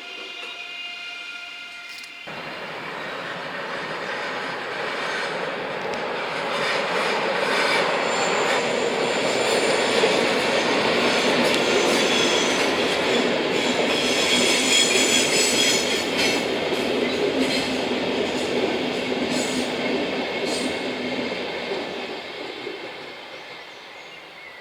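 A train passing on the line, swelling to its loudest in the middle and fading away over about twenty seconds, with thin high wheel squeal over the loudest part. At the start, a steady whine of several tones cuts off suddenly about two seconds in.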